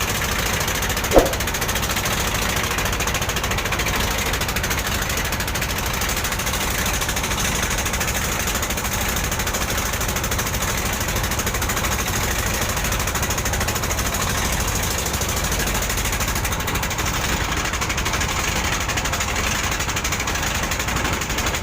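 Boat engine running steadily with a fast, even knocking beat. A brief sharp sound stands out about a second in.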